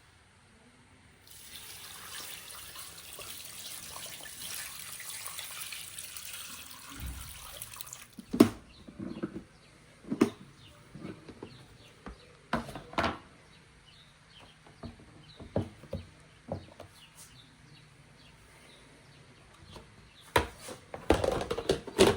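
Water running from a tap for about six seconds, then stops; after it, a string of separate knocks and clatters of kitchen things being handled, busiest near the end.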